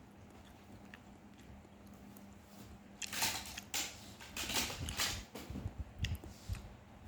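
Close-up chewing and mouth noises of someone eating sausage. A cluster of chewing sounds starts about three seconds in and thins to a few scattered clicks near the end.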